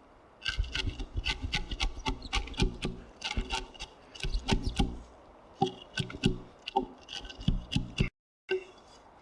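A chisel cutting and paring wood in a timber mortise: a fast run of short, sharp strokes and scrapes, broken by a brief silence near the end.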